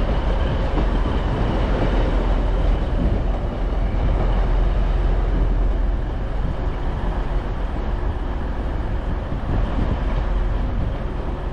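Class 156 diesel multiple unit running in: a steady low diesel rumble with wheel and rail noise.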